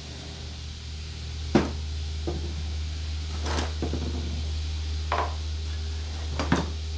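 Hand tools knocking and clinking against metal mower parts: about five separate short knocks, the loudest about one and a half seconds in, over a steady low hum.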